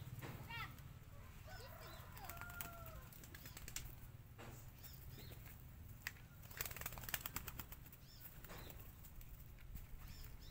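Racing pigeons flapping their wings, with a quick flurry of wingbeats about two-thirds of the way through, and a few faint bird chirps near the start.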